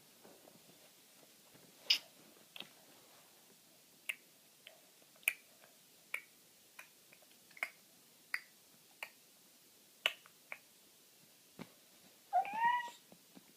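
A baby making faint clicking throat noises, about a dozen irregular clicks roughly a second apart, then a short squeal rising in pitch near the end.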